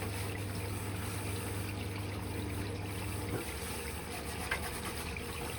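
Electrolux Quickwash commercial washing machine running an extra rinse to clear excess suds, with water running in the machine. A low steady hum cuts off about three and a half seconds in, followed by a small click.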